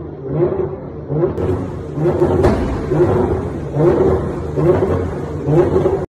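Nissan GT-R's twin-turbo V6 revved in repeated short throttle blips, about one a second, backfiring as its exhaust shoots flames, with one sharp bang about two and a half seconds in.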